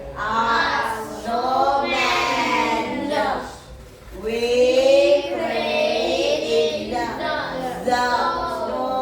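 A class of children reading an English sentence aloud in unison, a slow, drawn-out chant that breaks off briefly about four seconds in.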